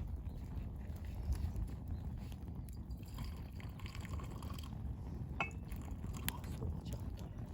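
Wood campfire crackling, with a few sharp pops over a steady low rumble.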